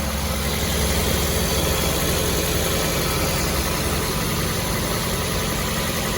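Toyota hybrid car running steadily at idle while its A/C system is being recharged, a low even hum whose deepest part eases slightly about two thirds of the way through.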